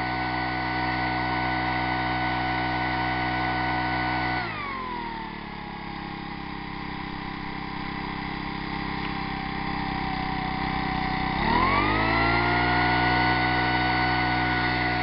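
Small 25cc four-stroke leaf blower engine running at full throttle. About four and a half seconds in it drops to idle, and about seven seconds later it revs back up to full throttle and holds there. It is running on an experimental, roughly 80% natural-gasoline fuel of low octane.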